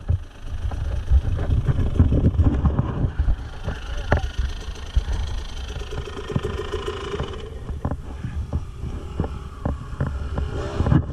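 Husqvarna TE300 two-stroke enduro bike's engine running at low revs while the bike picks its way slowly along a rutted mud trail. Many short knocks and rattles from the bike run through it, and the engine holds a steady note for about two seconds past the middle.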